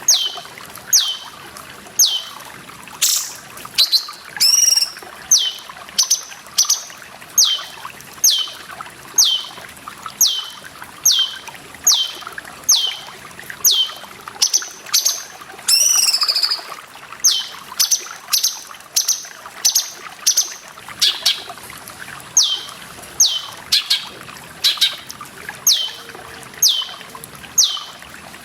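Cucak cungkok calling: a short, sharp note sweeping downward, repeated very regularly about once every 0.7 s, with two longer warbled notes about 4 and 16 seconds in. Trickling water runs steadily underneath.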